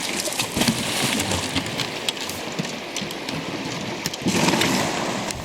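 Rushing river current splashing around a canoe, with scattered short knocks and scrapes.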